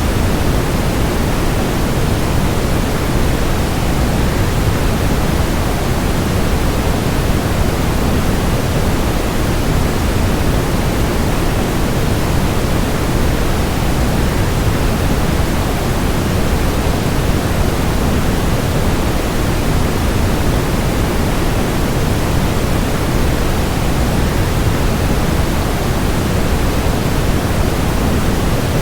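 Waterfall rushing, mixed with white noise: an even, unchanging hiss, heaviest in the low end.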